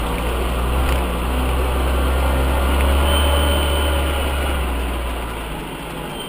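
UAZ off-road vehicle's engine running with a low rumble that grows louder about a second in and eases off again near the end, as it works through mud.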